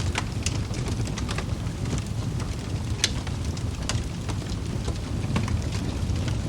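Wood fire burning in a fireplace: a steady low rumble of flames with frequent irregular crackles and pops from the logs, one sharper pop about three seconds in.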